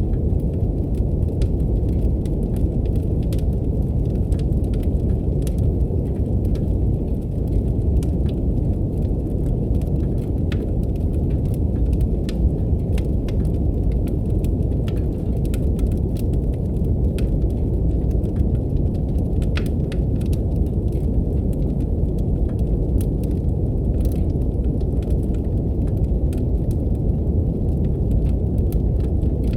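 Steady, deep brown noise with wood-fire crackle layered over it: irregular, sharp pops and snaps from a fireplace scattered throughout.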